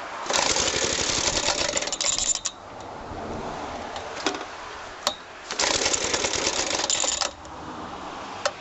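Suffolk Super Colt mower engine being pull-started twice: each pull gives about two seconds of rapid clattering, with a few sharp clicks between, and the engine does not keep running.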